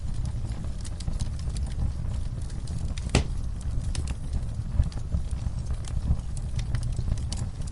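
Wood fire crackling: a steady low rumble of flames under scattered sharp pops and snaps, the loudest pop about three seconds in.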